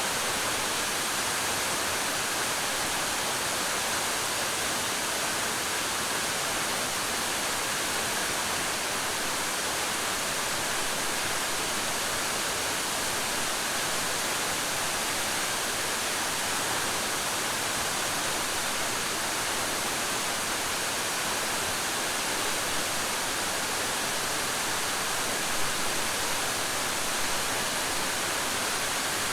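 Waterfall pouring steadily, a constant hissing rush of falling water.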